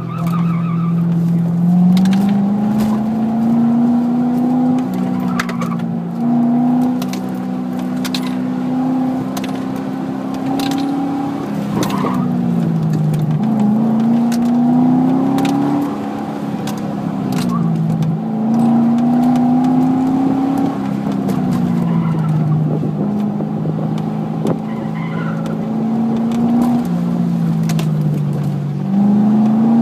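2008 Chevrolet Corvette Z51's 6.2-litre V8 heard from inside the cabin on an autocross run, its pitch rising on the throttle, holding, then dropping as it lifts, over and over.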